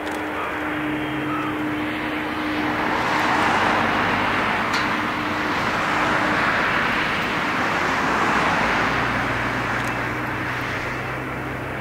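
Jet engine noise from a Boeing 747-400's four Rolls-Royce RB211 turbofans: a steady rushing rumble that swells a few seconds in, then eases toward the end. A steady hum under it fades out about halfway through.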